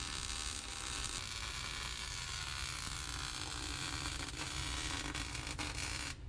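Arc welder crackling and sizzling steadily as a cut frame cross member is welded back together, stopping abruptly near the end.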